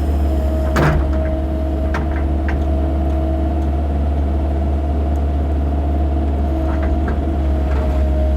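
Excavator's diesel engine running steadily with a low drone and a steady whine, while the bucket makes scattered knocks as it digs, the sharpest about a second in.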